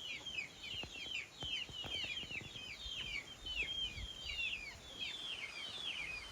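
Many small birds chirping at dawn: a dense, continuous chatter of short, quick falling chirps from several birds at once.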